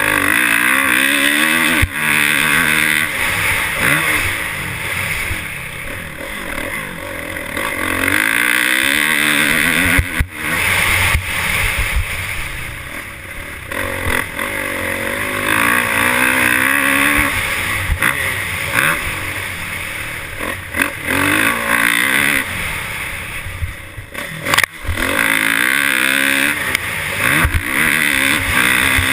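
Motocross dirt bike engine revving up and easing off again and again, its pitch climbing in repeated sweeps, with a loud rushing noise over it. It is cut by two sudden brief breaks, about a third of the way in and near the end.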